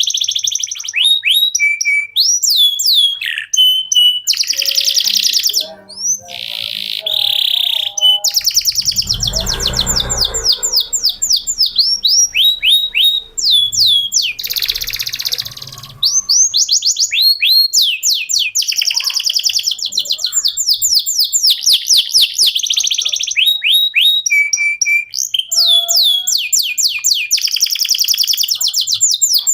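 Canary singing a long, nearly unbroken song of fast repeated trills and rolls. A brief low rumble comes about nine seconds in.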